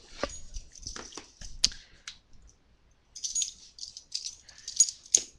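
Scattered light clicks and soft rustling from trading cards and their packaging being handled.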